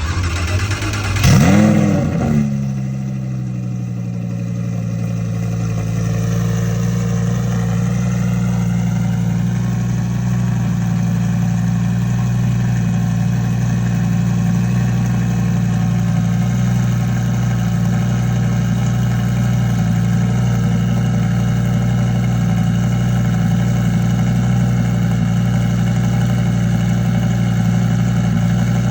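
Twin-turbo Audi R8 V10 engine starting on a cold start: it flares up in revs and drops back about a second in, then settles into a steady idle.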